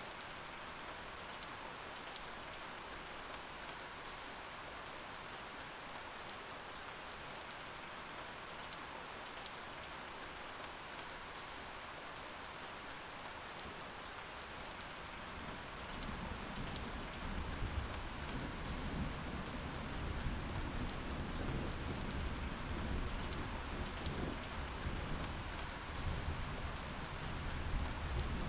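Steady rain hissing, with scattered drops ticking. A little past halfway, a low rolling rumble of thunder comes in under the rain and carries on, swelling near the end.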